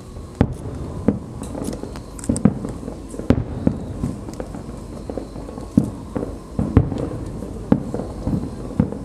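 Aerial fireworks bursting: an irregular series of about a dozen sharp bangs, with faint high crackling between them.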